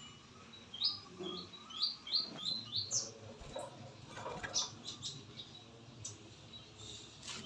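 A small bird chirping: a quick series of about six short, high, rising chirps in the first few seconds, then a few fainter calls.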